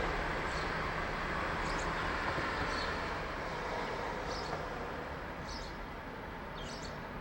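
A bird calling in short, high repeated notes about once a second over the broad rush of a passing vehicle that slowly fades away.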